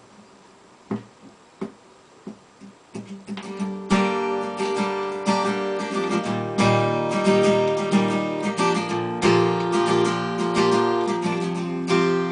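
A few soft clicks, then an acoustic guitar starts up about three seconds in and strums chords steadily as a song's intro.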